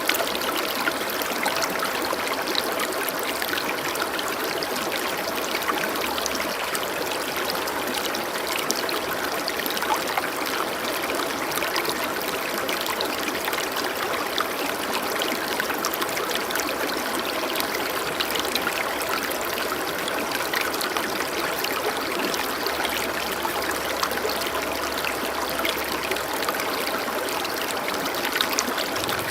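Running water, a stream flowing and trickling steadily, with many small splashes.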